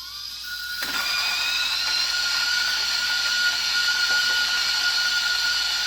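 Option-O Lagom Casa electric conical-burr coffee grinder spinning up with a rising whine. About a second in it starts grinding a 19 g dose of beans at an espresso setting: a steady high whine over an even grinding hiss.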